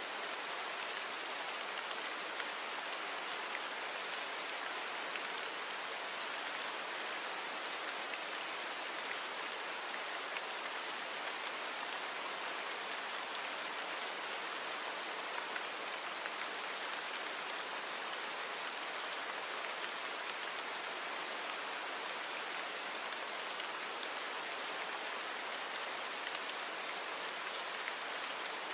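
Steady rain falling, a dense even hiss with scattered faint drop ticks on a surface.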